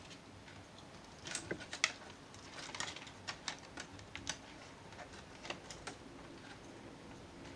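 Irregular light clicks and taps of a Dell Inspiron 3500 laptop's frame being handled and fitted back into place, thickest in the middle of the stretch.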